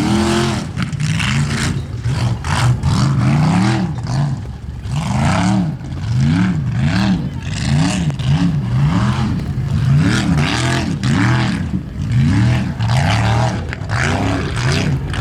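A formula offroad race truck's engine revved hard, its pitch rising and falling again and again in quick swings, often about twice a second, as the truck climbs the course.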